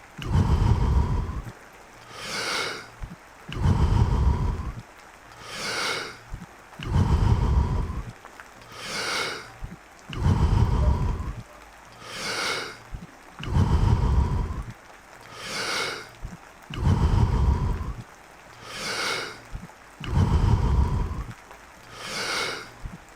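A man doing Wim Hof power breathing: deep, forceful breaths in a steady rhythm, about seven of them, each a short hissy draw followed by a louder, longer rush of air.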